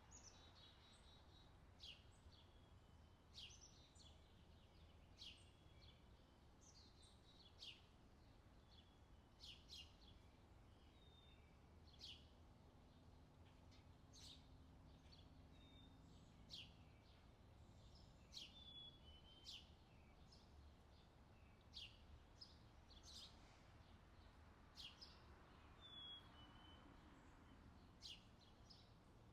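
Faint outdoor summer ambience: short, high bird chirps recurring every second or two over a low, steady background rumble.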